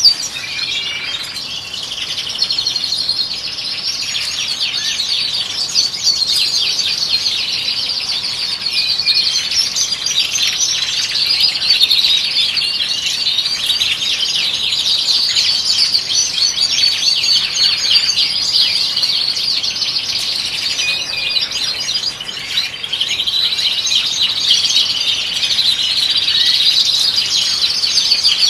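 European goldfinches singing: a fast, unbroken twittering and chirping.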